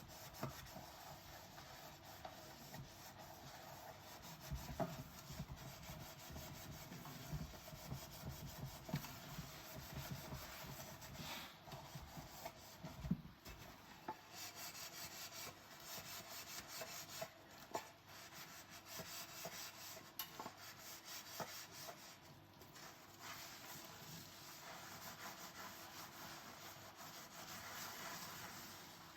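Dishes being scrubbed by hand with a sponge: faint, continuous rubbing in quick back-and-forth strokes, with occasional light clicks of tableware.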